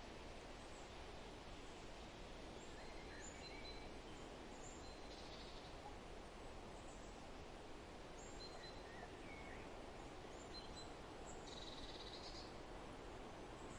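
Forest ambience: a steady soft hiss with faint, scattered high bird chirps throughout, and two short buzzy bird calls, one about five seconds in and one after about eleven seconds.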